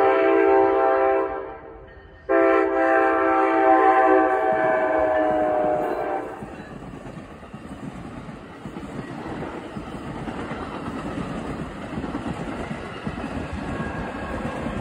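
NJ Transit commuter train horn: a blast breaks off about a second in, then a second long blast starts about two seconds in and lasts about four seconds, its chord dropping slightly in pitch as the train passes. Then comes the steady rumble and wheel clatter of the double-deck coaches going by.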